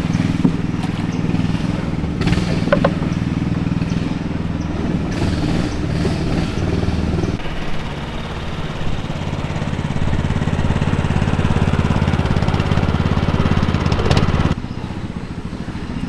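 Motorboat engine running steadily under way. Its pitch shifts about halfway through, and it drops in level near the end as the engine is throttled back.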